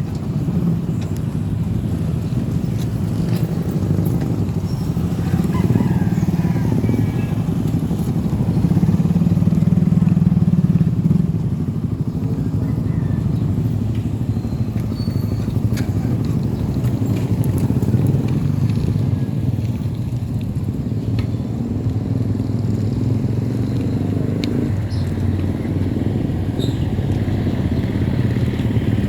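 Motorcycle engine running steadily while riding. It gets louder for a few seconds about a third of the way in.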